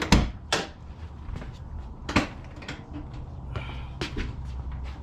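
Several separate sharp knocks and clunks from work on a car's rear brake hub while the brake rotor is being freed: one right at the start, another about half a second later, one about two seconds in and a couple more around four seconds in.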